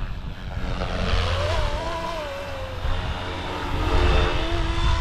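Flywing Airwolf RC helicopter (FW450 V3 electric mechanics) flying, its rotor and motor whine rising and falling in pitch as it manoeuvres. Wind rumbles on the microphone underneath.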